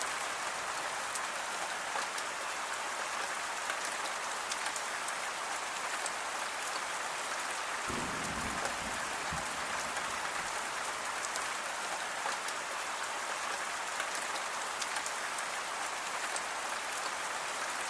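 Steady rain falling on a surface, a dense even hiss with many small drop ticks, and a brief low rumble about eight seconds in.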